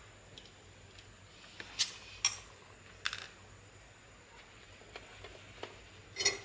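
Sharp metallic clinks and taps of hand tools and metal parts being handled during work on a water pump, some with a brief ring. Four louder clinks stand out, the loudest near the end, with lighter ticks between them.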